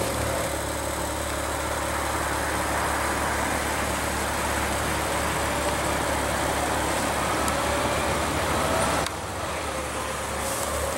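Maserati Ghibli's 3.0-litre twin-turbo V6 idling steadily, a low even hum with a faint whine slowly rising in pitch; the level drops a little about nine seconds in.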